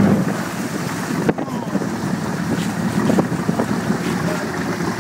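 Wind buffeting the microphone over water splashing and lapping against a small boat, with a few sharp knocks.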